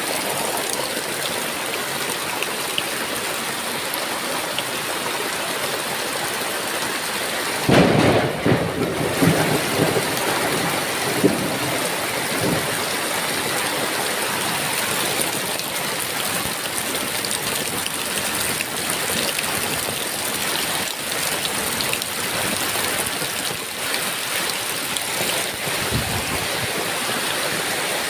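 Heavy rain falling steadily, with a crack of thunder about a quarter of the way in that rumbles on for a couple of seconds before fading back into the rain.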